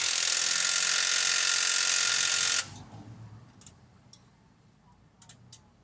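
A handheld power tool runs steadily with a whirring whine for about two and a half seconds, then cuts off suddenly, while a bolt is driven during the steering rack work. A few light metallic clicks follow.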